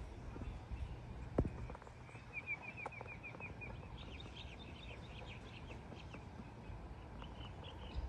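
Birds calling: a quick run of about eight even chirps, then a flurry of short high notes, over a low steady rumble. A single sharp knock comes a little over a second in.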